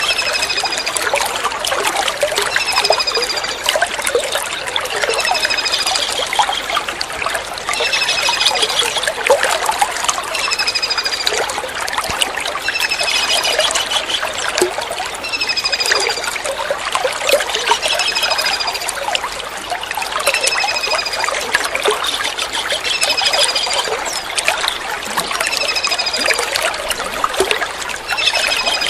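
Kingfisher calling: short, high, descending whistled notes and trilled phrases repeating about every two seconds, over steadily trickling running water.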